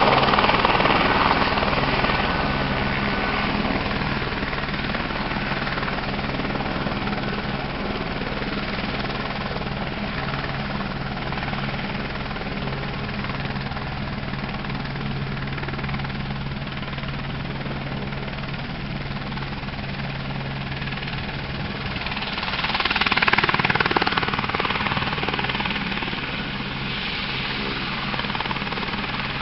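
AS350 B3 Écureuil helicopter in flight, its turbine and rotors making a steady drone. The sound is loudest near the start and swells again at about 23 seconds, as the helicopter comes close overhead.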